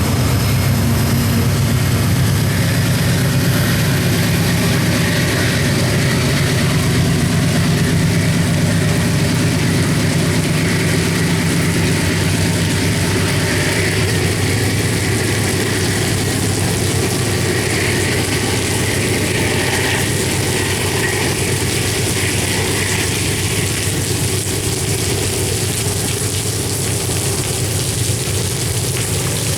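CSX coal train rolling past with a steady, heavy rumble that eases slightly near the end.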